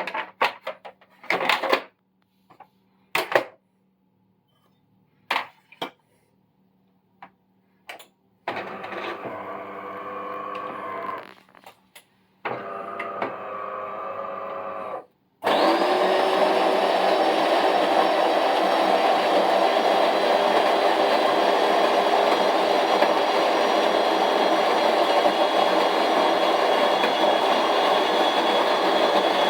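DeLonghi Magnifica bean-to-cup coffee machine: a few clicks and knocks, then two short humming runs of about three seconds each. About fifteen seconds in, a much louder steady grinding motor starts up, most likely the built-in bean grinder, and keeps running.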